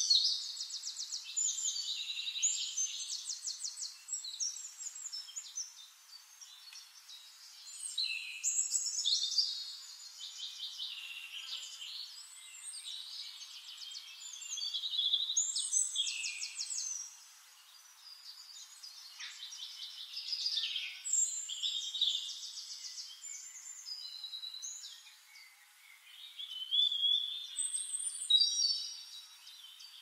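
A songbird singing high, rapid trills and whistles, a new phrase about every six or seven seconds.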